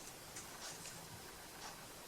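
A clock ticking faintly, with a few faint small clicks.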